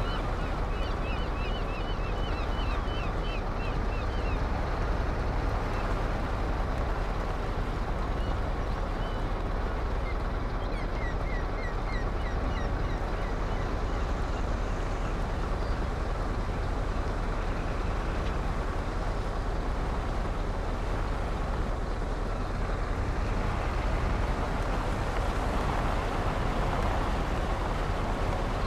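A truck's engine and road noise running steadily. It is heavy in the low end. Short runs of quick, high chirps come in the first few seconds and again about eleven seconds in.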